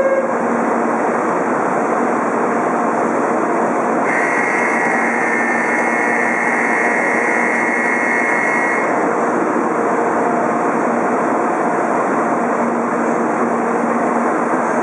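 Steady loud running noise of an N700A Shinkansen train standing at the platform with its doors closing. A steady high tone sounds for about five seconds in the middle.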